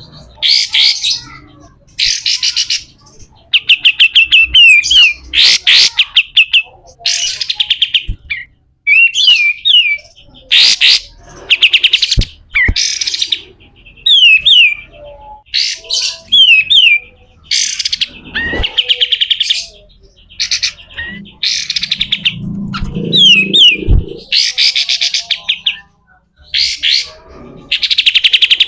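Kapas tembak singing continuously in a harsh, rasping 'besetan' style: short bursts of very fast rattling notes alternating with quick down-slurred whistles, repeated every second or two.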